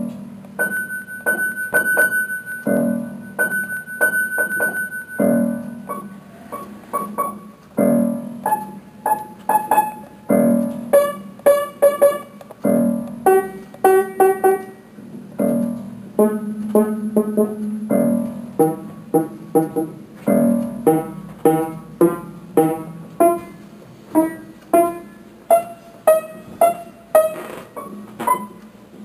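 Solo piano music: a steady run of struck notes, each ringing out as the next comes in.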